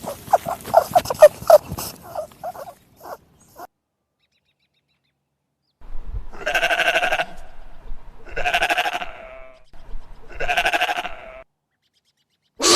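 A chicken clucking in quick pulses that trail off over the first few seconds. After a pause come three long bleats, each about a second long, from a bleating farm animal.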